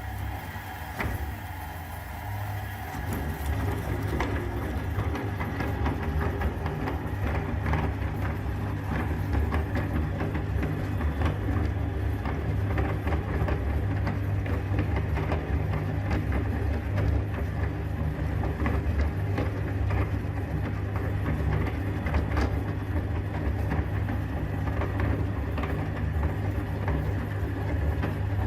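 Electric meat grinder running steadily with a low motor hum, with many small cracks and clicks as hard lollipop candy is crushed. The hum gets a little louder over the first few seconds.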